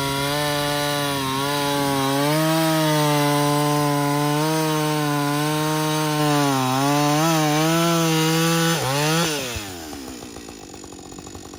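Two-stroke chainsaw at full throttle cutting wood, its engine note sagging and recovering with the load. About nine seconds in the throttle is released and the pitch falls quickly as the engine comes off the cut.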